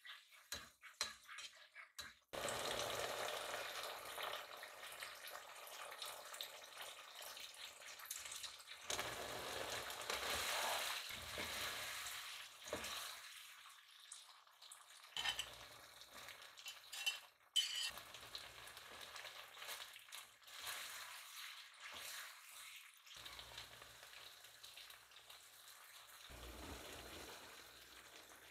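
Sauce sizzling in a hot nonstick pot while a spatula stirs and scrapes through it, then fried chicken pieces being tossed in the sauce. The hiss comes in several short spells with abrupt cuts between them.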